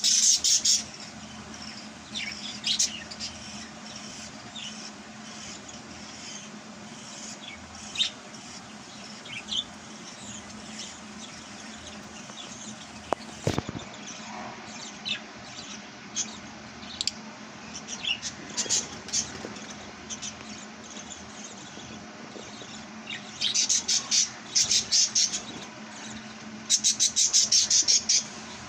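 Fischer's lovebirds giving short, sharp chirps scattered through, then two fast runs of rapid chirping near the end. A steady low hum runs underneath, and there is a single sharp click about halfway through.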